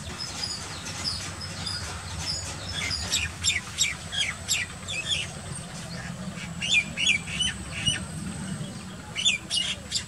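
Bird calls in quick runs of short, high chirping notes, loudest a few seconds in and again near the end, over a steady low hum.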